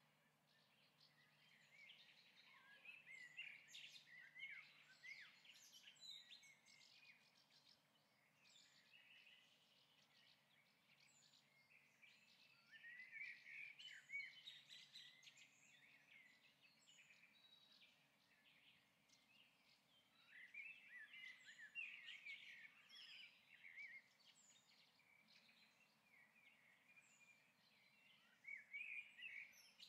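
Faint birdsong: bouts of quick, twittering chirps a few seconds long, coming back about every eight seconds over a faint low hum.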